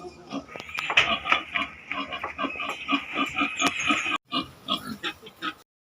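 Native pigs grunting in quick repeated grunts, about four a second, with a steady higher-pitched squeal or whine running under them for most of the stretch; typical of a boar's courting chant while it is put to a sow for breeding. The sound breaks off briefly past the middle, resumes, then stops shortly before the end.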